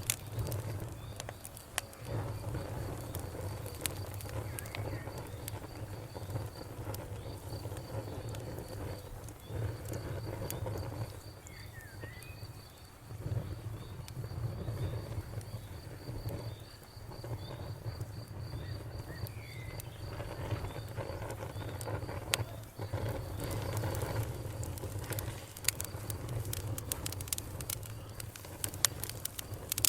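Campfire crackling with scattered sharp pops over a steady low rush, while an insect chirps in a fast, even pulse through most of the stretch. A few short bird chirps come in now and then.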